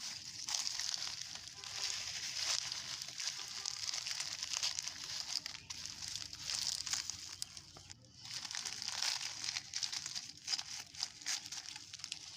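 Old plastic litter crinkling and rustling as it is handled and pulled loose, a continuous crackly rustle with a short pause about eight seconds in.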